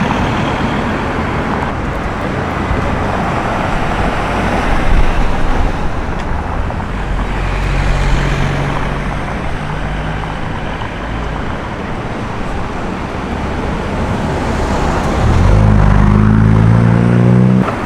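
Street traffic with cars passing. Partway through, an engine runs at a steady note for a few seconds. Near the end, a car engine accelerates loudly close by, its pitch rising, and then cuts off abruptly.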